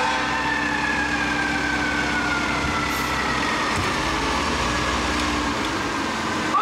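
Fire truck siren in a slow wail, its pitch falling gradually and then sweeping sharply back up at the end, over the low rumble of the truck's engine.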